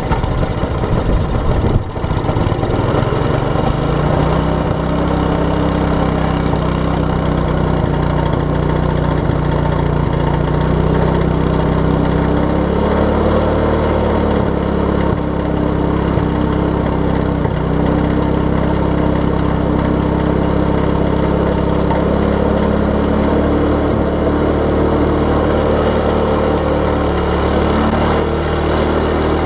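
White Snow Boss 500 snowblower's small engine, just started, speeding up over the first few seconds and then running steadily.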